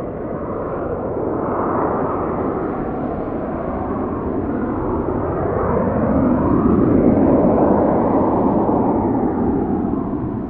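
Business jet's engines roaring as the aircraft passes, the sound swelling to a peak about two-thirds of the way through and then starting to fade.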